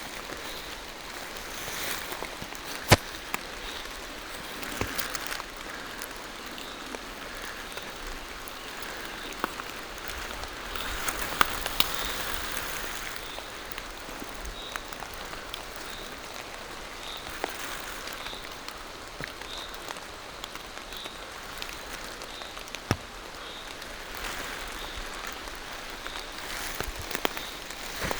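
Steady rain falling through forest trees, an even hiss with scattered sharp taps of single large drops, the loudest about three seconds in, near the middle and about two-thirds of the way through.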